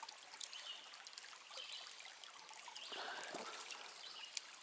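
Shallow creek water trickling, faint and steady, with a few small clicks scattered through it.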